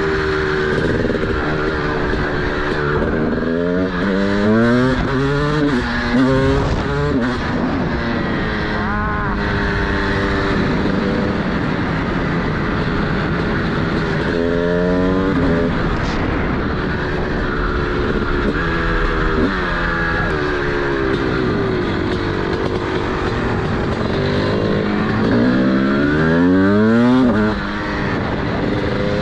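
TM SMR 300 two-stroke single-cylinder supermoto engine with a DBR exhaust, riding through the gears: the revs climb and drop several times, with a long climb near the end that is cut off sharply, over a steady rush of wind noise.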